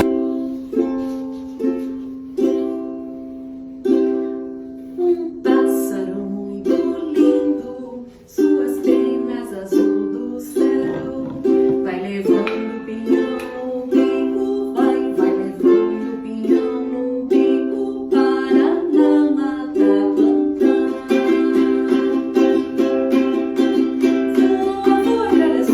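Instrumental music from a solo plucked string instrument playing a melody, each note sharp at the start and then fading. The notes are spaced out at first and grow busier after about eight seconds.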